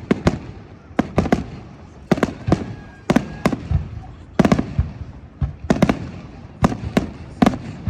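Fireworks display: aerial shells bursting in an irregular series of loud bangs, sometimes two or three in quick succession, each trailing off in a low rumbling echo.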